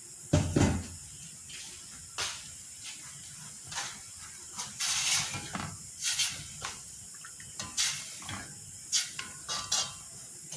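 Cooking pot and utensils being handled: a string of short knocks and clinks, a louder thump about half a second in, and a few brief scraping noises midway, over a steady hiss.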